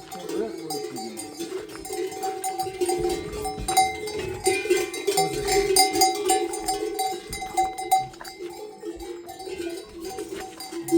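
Livestock bells on a herd clanking continuously, many small bells jangling over one another with a constant ringing tone.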